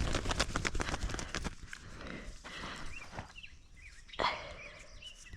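Crackling and crunching of dry leaves and twigs, dense over the first second and a half and then thinning to scattered rustling, with one louder rustle about four seconds in.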